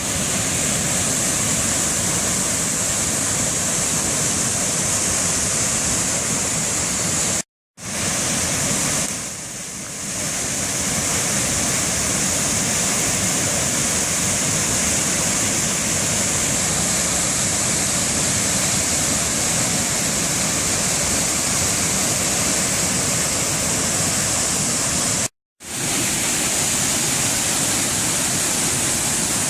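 Waterfall rushing, a steady, close roar of falling water. It cuts out completely twice for an instant and dips briefly about ten seconds in.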